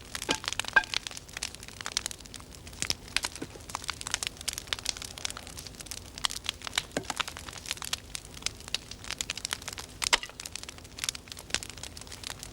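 A fire crackling, with dense, irregular snaps and pops throughout.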